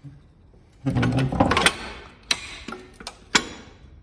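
Metal rattling and scraping as a car's front subframe is lowered out from under it, then a few sharp metal clanks. The subframe is snagging on something still bolted on.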